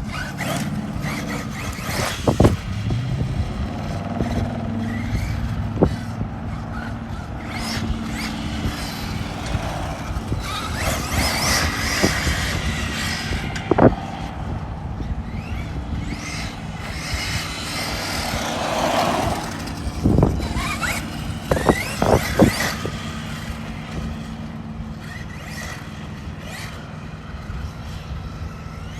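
Arrma Mojave 6S RC truck running on a 4S battery pack: a steady electric motor whine and tyres working on dirt, with several sharp knocks spread through the stretch.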